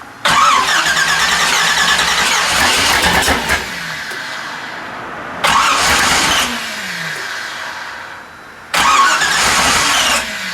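Starter cranking a Chevrolet ZZ4 350 V8 three times, the longest attempt first, each ending in a falling whine as it spins down, with the engine not catching on its first start-up.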